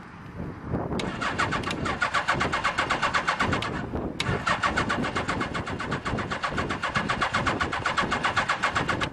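Suzuki GS850G's inline-four engine being cranked cold on the electric starter in two bursts: a fast, even chuffing beat that starts sharply, breaks briefly about four seconds in, resumes, and stops abruptly near the end. It is struggling to catch because a bad coil pack and fouled plugs leave it firing on only one or two cylinders.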